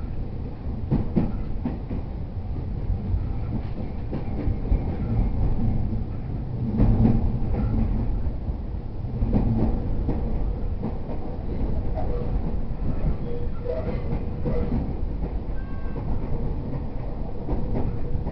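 Cabin running noise of an E231 series commuter train: a steady low rumble of wheels on rail with scattered clicks from the rail joints, and a faint steady tone in the last few seconds.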